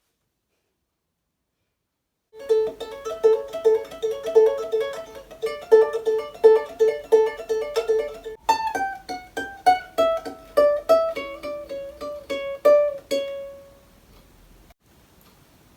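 Ukulele picked solo, playing a quick repeating arpeggio figure, then single notes stepping down in pitch and ending on a last note left to ring. It starts after a couple of seconds of silence.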